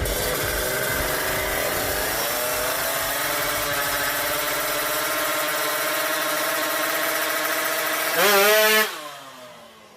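Tuned Kawasaki Ninja drag bike engine running steadily at high revs, then a short, louder rev near the end that rises and falls before the sound dies away quickly.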